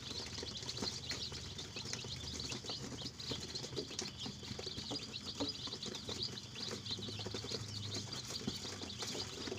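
A flock of KUB village chickens chirping without pause, many short high calls overlapping, with scattered soft ticks beneath.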